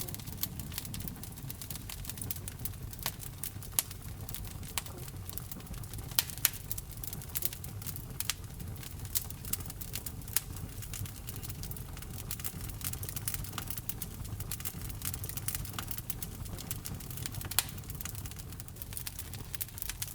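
Wood fire burning in a fireplace: a low steady rumble of flames with frequent sharp crackles and pops, a few louder pops about six seconds in and near the end.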